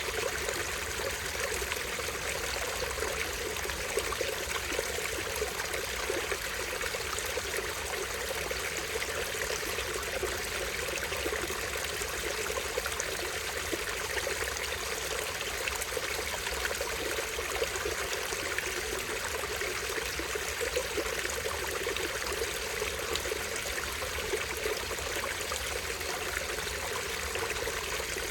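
A small stream splashing and trickling steadily over rocks, with no break or change.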